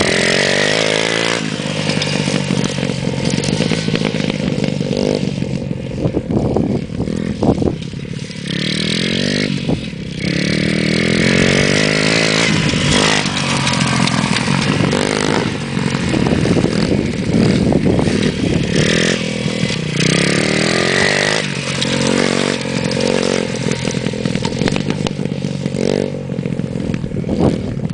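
Motocross bike engine running and revving, its pitch rising and falling again and again.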